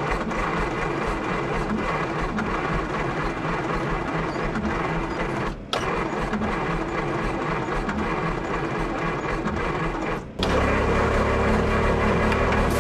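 1955 Willys station wagon engine cranked over by its 6-volt starter in two long stretches, with a short break a little before halfway and no sign of the engine catching. The ignition points have just been adjusted to get a spark that the owner calls weak. The cranking stops near the end.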